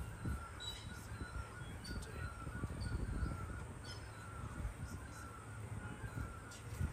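Birds calling again and again over a gusty low rumble, likely wind on the microphone.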